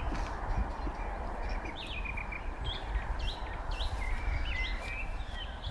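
Small birds chirping, short high calls sweeping up or down, several in the later part, over a steady low rumble.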